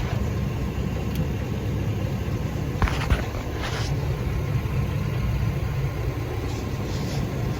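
A 2005 Chevy Savana's 6.0L Vortec V8 running steadily, with a few brief clicks about three seconds in.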